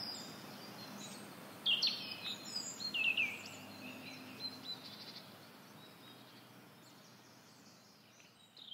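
Songbirds chirping and singing, with short, quick phrases that sweep downward in pitch. The loudest phrases come about two to three seconds in, over a steady low background hum, and the whole sound slowly fades.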